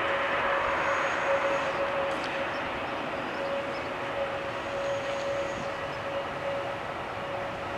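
Jet airliner engines running, a steady rushing noise with a steady hum through it, easing off slightly.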